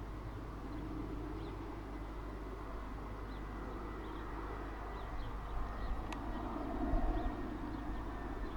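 Distant business jet engine running steadily, a low rumble with a thin high whine. Birds chirp faintly, and a single sharp click comes about six seconds in.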